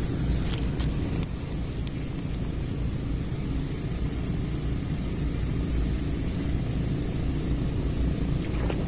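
Steady low rumble, with a few faint short ticks in the first second or so.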